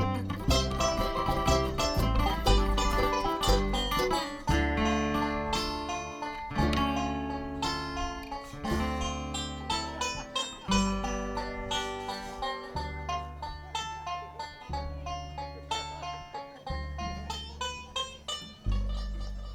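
Live bluegrass band playing an instrumental break: fast picked string lines over a steady bass, with no singing, getting gradually softer toward the end.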